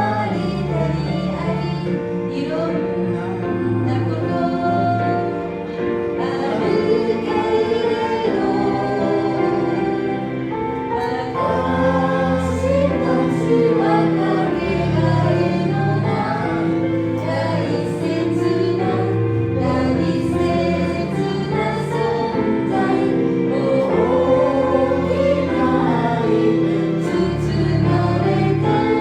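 Christian worship song: a group of voices singing together over steady instrumental accompaniment.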